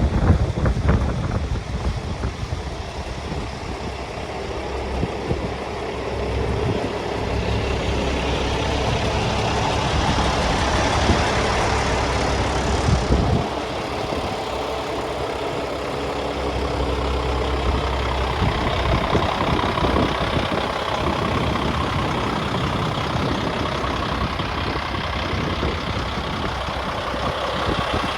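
Paccar diesel engine of a Kenworth T660 semi truck running at idle, a steady low rumble that grows a little louder from about six seconds in and drops back just after thirteen seconds.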